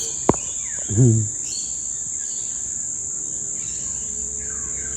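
Steady high-pitched drone of insects, with a few faint bird chirps and falling whistles. A sharp click comes just after the start, and a brief low vocal sound about a second in.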